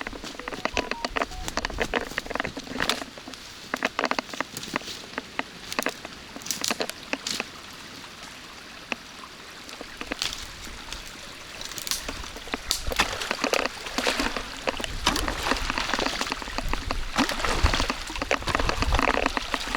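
Water running and pouring, with irregular sharp knocks and crackles over it; the sound grows louder about two-thirds of the way through.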